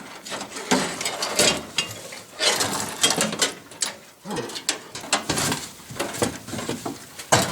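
Irregular metal clanking, rattling and scraping as the steel dash panel of a 1955–59 Chevrolet/GMC pickup is worked loose and pulled free of the cab, snagging on wires as it comes.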